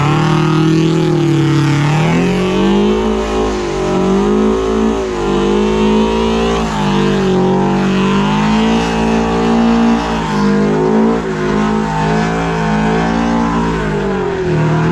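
Scion FR-S's 2.0-litre flat-four engine held at high revs while the car does donuts. The pitch rises and falls as the throttle is worked, dipping briefly a few times.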